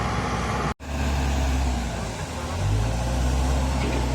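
Diesel engine of heavy earthmoving equipment running steadily, cut off sharply for an instant about a second in. The engine note rises and holds higher a little past halfway, as the machine takes on more throttle.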